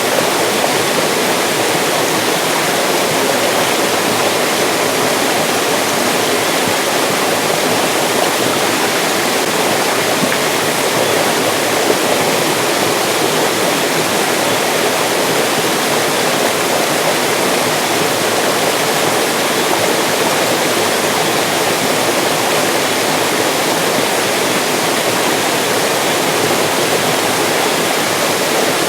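Mountain stream rushing and splashing over rocks, a steady, full water noise with no break.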